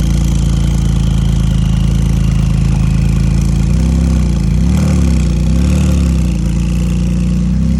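Porsche 991 GT2 RS twin-turbo flat-six idling after a cold start, steady, with the revs rising and falling gently a few times in the middle before settling back to idle.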